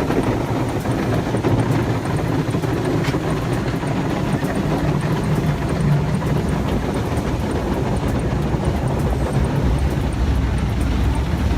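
Automatic car wash machinery running, a steady low rumble without breaks.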